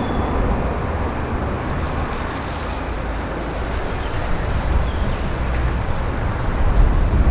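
Steady outdoor background noise with a heavy low rumble and no clear single event.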